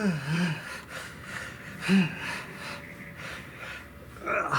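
A man breathing hard and puffing from exertion on a bike ride. A wavering groan trails off at the start, and there are short voiced grunts about two seconds in and near the end.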